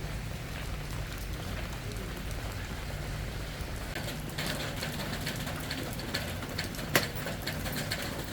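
Rain falling steadily, with a thicker run of small drop-like taps from about halfway through and one sharper tap near the end.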